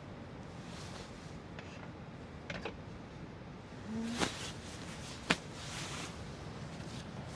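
A few light knocks and clicks of objects being handled, three or so scattered over several seconds, over a low steady background.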